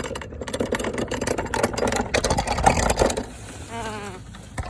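Small ride-on car's motor and drivetrain running with a rapid rattle while doing donuts. After about three seconds it goes quieter, with a short falling whine and then a single click.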